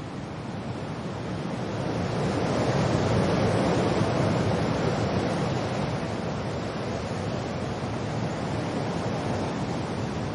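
Wind and rain as an even rushing noise, with a gust swelling up over the first few seconds and then slowly easing off.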